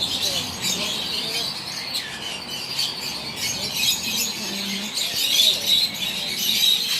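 Many small caged birds chirping and chattering together in an aviary, a dense high twittering that keeps on without a break.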